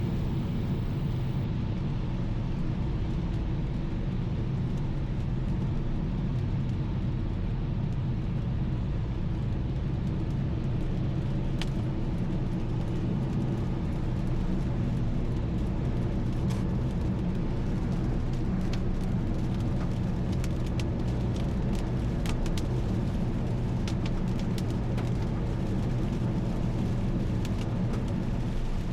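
Car driving at a steady pace: continuous low road and engine rumble, with scattered faint ticks that appear about halfway through and grow more frequent.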